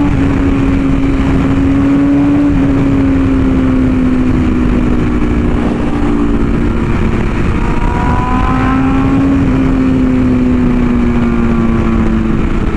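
BMW S1000RR inline-four engine running at high speed on the road, its pitch holding nearly steady with slight rises and dips, under heavy wind rush.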